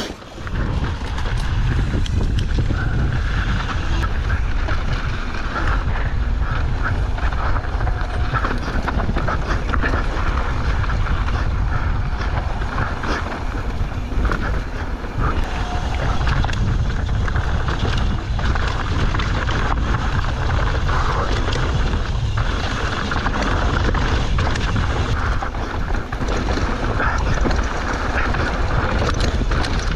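Wind buffeting the rider's camera microphone during a mountain bike descent, a steady low rush, with tyre noise on the dirt and many small rattles and clicks from the bike over rough ground.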